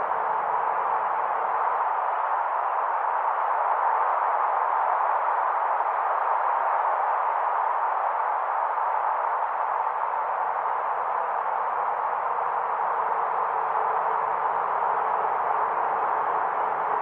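Wind blowing steadily, centred in the middle register. A faint low rumble underneath drops out about two seconds in and returns about halfway through.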